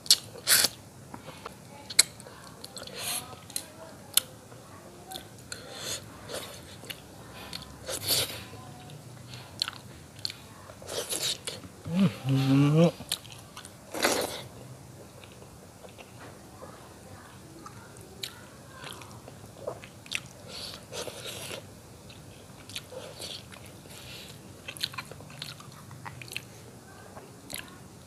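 Close-up mouth sounds of a person eating curried pangasius fish head and rice by hand: wet chewing, biting and lip smacks with many short sharp clicks. A brief voiced hum rising in pitch comes about halfway through.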